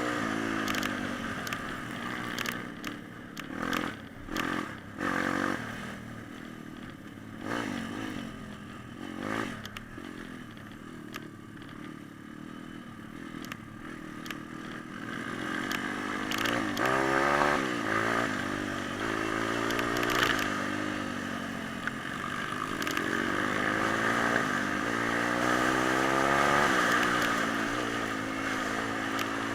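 Small pit bike engine being ridden, its note repeatedly rising and falling as the throttle is opened and closed. A few knocks and clatters come in the first several seconds. The engine is quieter for a stretch about a third of the way in, then louder and revving harder through the second half.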